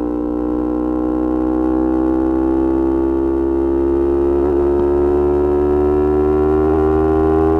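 Yamaha R25 V1's 250 cc parallel-twin engine through a Kea Speed aftermarket exhaust, held at high revs in one gear with its pitch rising slowly and steadily, as under a long pull. The note wavers briefly twice in the second half.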